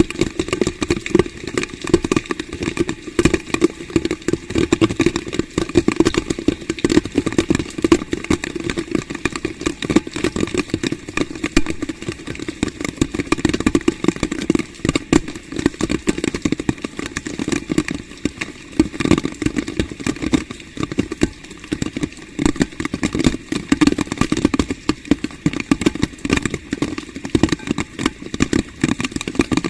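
Heavy rain striking a hard surface close to the microphone: a loud, dense, irregular crackle of drops that keeps up without a break.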